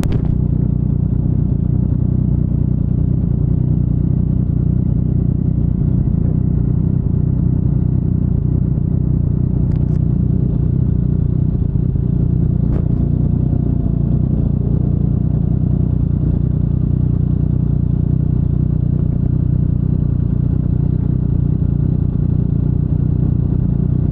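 Yamaha MT-09's inline three-cylinder engine idling steadily through an Akrapovic full-system exhaust, its pitch unchanging. A few faint clicks come through over it.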